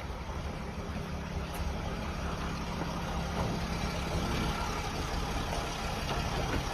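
Mercedes-Benz Sprinter van's engine idling with a steady low hum.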